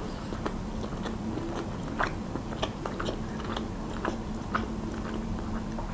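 A person chewing a bite of minced-lamb cutlet: a string of small, irregular mouth clicks.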